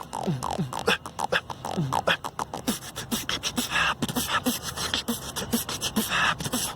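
A fast rhythmic beat of sharp clicks and quick downward-sliding zaps, in the style of beatboxing.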